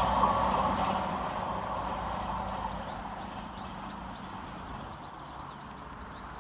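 Class 221 Super Voyager diesel train running through the station and fading away, its rumble dying down over the first few seconds. Small birds chirp from about two seconds in.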